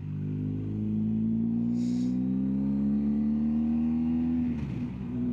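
BMW R1250GS Adventure's boxer-twin engine pulling uphill, its pitch rising steadily for about four and a half seconds, then dropping with a gear change near the end.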